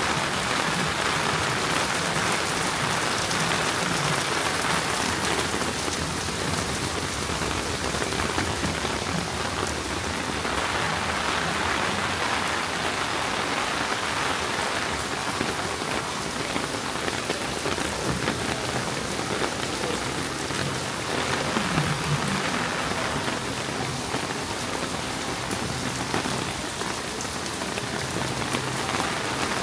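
Steady rain falling and pattering on surfaces, an even hiss that stays at much the same level throughout.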